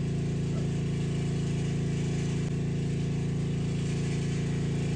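Steady electric hum of a water pump motor running while water is pumped through the flow meter at about 5 gallons a minute.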